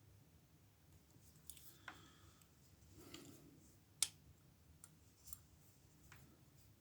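Faint, scattered metallic clicks of a tension wrench working in an older Ruko oval lock cylinder of an ASSA brass-and-steel padlock, the sharpest click about four seconds in.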